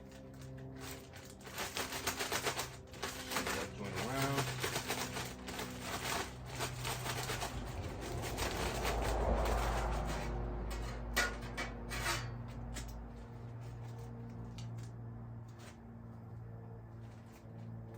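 Food frying in hot oil at about 350 degrees: dense crackling and spattering for the first ten seconds or so, thinning to scattered pops after that.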